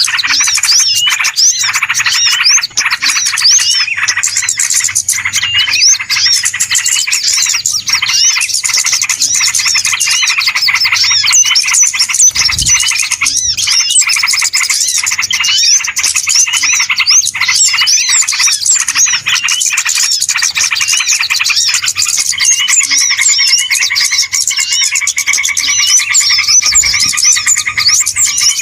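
Bird-lure recording of a dense chorus of many small birds chirping and twittering at once: a loud, continuous, high-pitched chatter of overlapping rapid chirps with no pause.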